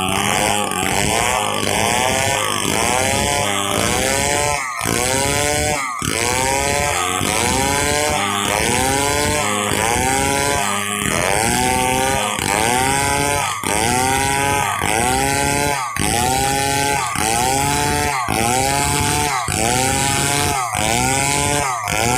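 Stihl 070 two-stroke chainsaw cutting pule wood for planks under full throttle. Its engine pitch rises and sags over and over, a little faster than once a second, as the chain loads up in the cut.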